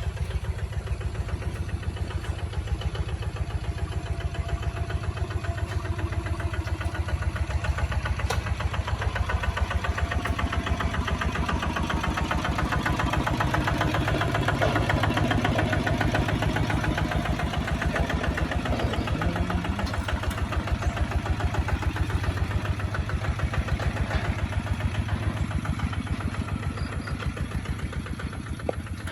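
Kubota ZT155 DI single-cylinder diesel engine running with a steady, rapid thudding beat as the tractor drives. It grows louder toward the middle and fades toward the end.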